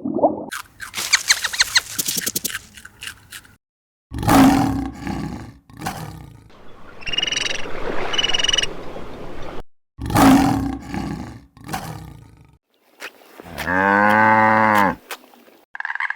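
A string of different animal calls with short pauses between them: a rapid rattling chatter, a loud harsh call that comes twice, two short high-pitched calls, then a long, low call near the end whose pitch rises and falls.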